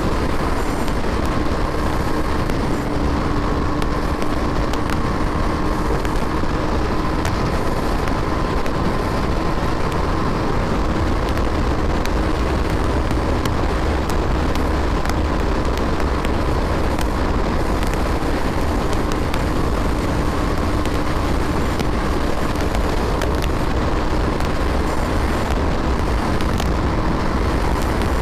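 Loud, steady wind rush over a BMW G 310 R's single-cylinder engine held at constant high revs, the bike cruising near its top speed of around 150 km/h.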